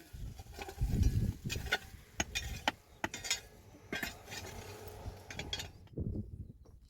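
Irregular light knocks and clinks of objects being handled, with a dull low thump about a second in.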